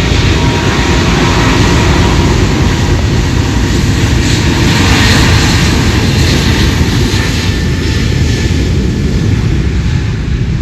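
Jet airliner passing close by, its engine noise building to a peak about halfway and easing off near the end, with a faint whine in it. Heavy low rumble from strong wind on the microphone runs underneath.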